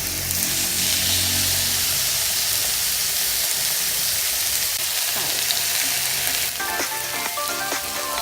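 Chicken breast sizzling in hot olive oil in a Teflon frying pan, a steady hiss. Background music with plucked notes comes in about six and a half seconds in.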